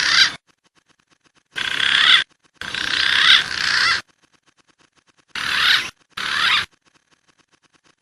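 Wild pigeon calls from a bird-lure recording: five short bursts of wavering, whistle-like calls, each cut off sharply, with short gaps between them.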